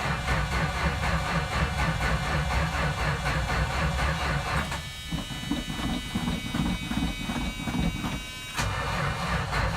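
1983 Dodge Ram's engine running just after a cold start, its first start in about two months. For about four seconds in the middle the note drops and is quieter, with a steady high whine, before the fuller rumble returns.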